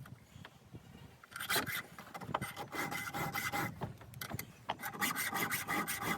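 Hand file rasping across the cutters of a 3/8 chainsaw chain, sharpening teeth rounded off by rotten wood: a quick run of short strokes starting about a second and a half in, a brief pause, then more strokes near the end.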